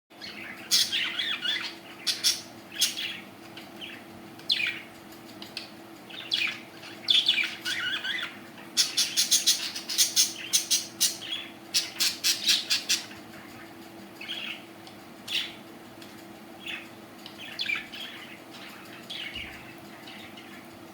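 Budgerigars chirping and squawking in short calls, with a burst of rapid chirping around the middle that thins out toward the end. A steady low hum runs underneath.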